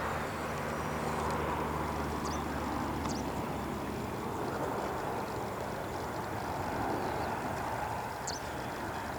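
Steady distant rumble and hiss of the Boeing P-8A Poseidon's jet engines on approach, with a few short high bird chirps over it.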